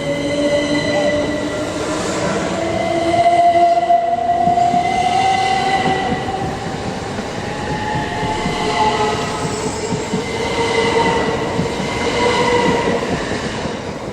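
Electric multiple-unit train moving through the station: a steady rumble of the train running on the track, with whining tones that slowly glide up and then settle lower.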